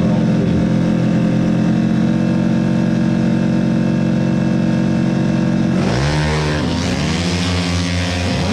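A Yamaha NMAX-based 300 cc drag scooter's engine is held at steady high revs on the start line. About six seconds in it launches: the pitch drops, then sweeps up and down as it accelerates away.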